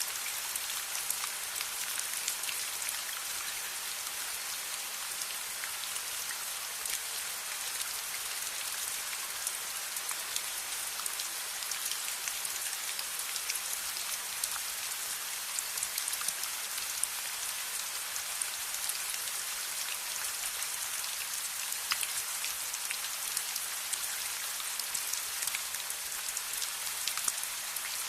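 Steady rain falling, an even hiss with scattered sharp ticks and pops through it.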